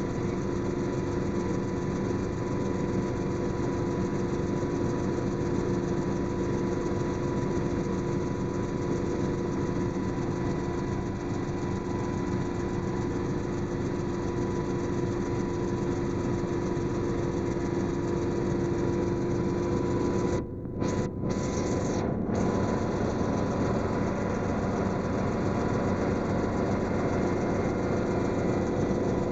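Helicopter in flight: a steady engine and rotor drone with a constant whine, cutting out abruptly three times for a fraction of a second about twenty seconds in.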